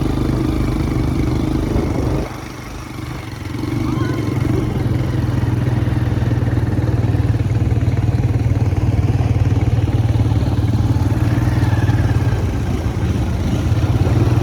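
Quad bike (ATV) engine running. The engine eases off about two seconds in, then picks up again and holds steady.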